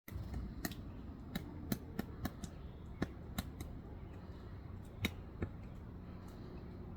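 Pileated woodpecker chiselling into wood while foraging for grubs: irregular single sharp knocks, about a dozen, spaced unevenly rather than in a drumming roll, stopping after about five and a half seconds. A steady low rumble runs underneath.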